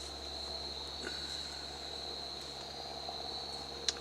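Crickets chirring in a steady, high-pitched continuous chorus. A single sharp click sounds near the end.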